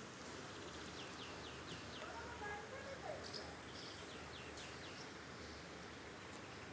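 Small songbirds chirping: a few runs of short, high, quickly falling chirps, over steady outdoor background noise.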